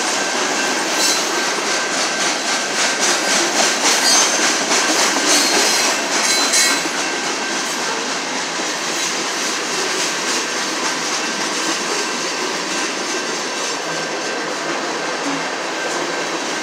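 Freight train's tank cars and covered hoppers rolling past: a steady rumble and clatter of steel wheels on rail. Quick clicks over the rail joints come through for the first seven seconds or so, after which it settles a little quieter.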